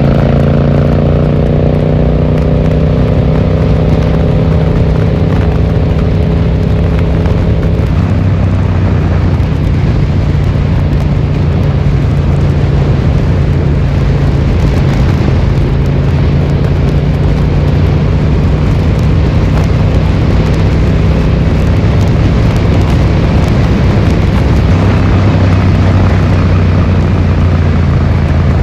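Yamaha XSR700's parallel-twin engine running through an Akrapovic exhaust while the bike is ridden, with wind and road noise. Picked up on a phone in the rider's pocket. The engine note eases slightly over the first several seconds, then holds steady.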